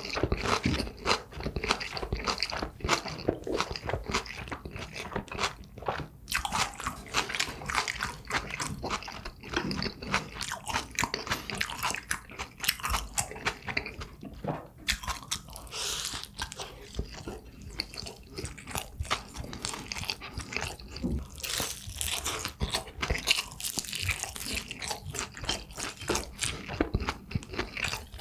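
A person chewing and crunching food close to the microphone, with many small, irregular crunches.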